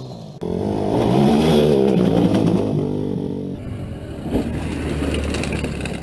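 Honda XR250 Tornado dual-sport motorcycle's single-cylinder engine revving, its pitch rising and falling as the throttle is worked. It comes in abruptly just under half a second in.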